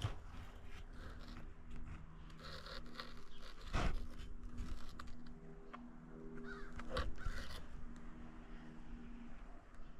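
Rustling and scraping close to the microphone, the loudest about four and seven seconds in, over a faint steady hum.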